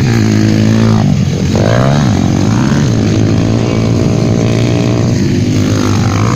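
150cc motocross bikes racing past, their engines revving hard. The pitch drops sharply about a second in, climbs again soon after, and changes once more near the end as the riders shift and go by.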